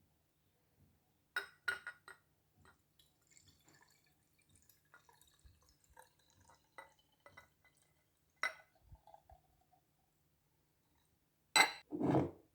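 Glassware being handled: scattered sharp clinks and taps with small drips of liquid, the loudest two clinks close together near the end.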